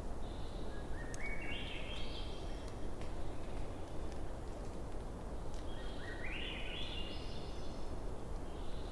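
Bonfire burning with a steady crackle and a few sharp pops. Twice, a bird gives a call of quickly repeated notes that climb in pitch over about a second and a half.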